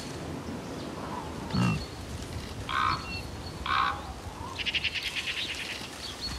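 Wild birds calling in a winter forest: two short harsh calls about a second apart, then a rapid chattering rattle, with a thin high whistle coming and going. A brief low sound comes about one and a half seconds in.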